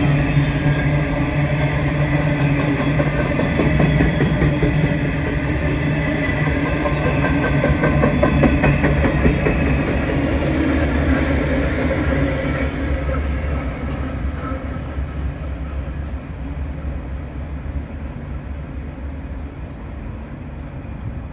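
Diesel freight train passing: a steady locomotive engine drone with wheels clicking over rail joints. The whole sound fades away over the second half as the train moves off.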